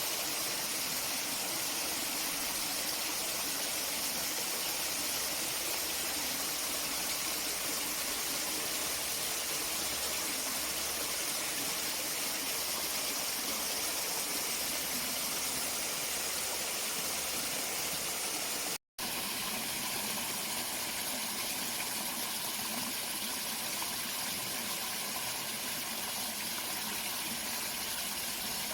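Water of a stream rushing steadily, a continuous even wash of noise that breaks off for an instant about two-thirds of the way through.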